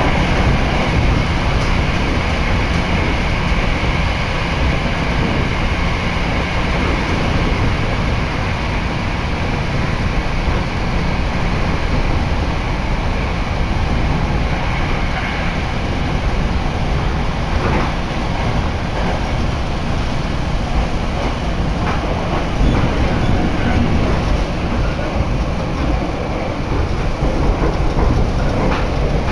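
Hankyu Kyoto Line electric train running, heard from inside the carriage: a steady rumble of wheels on track and running gear, with a few short knocks about two-thirds of the way through.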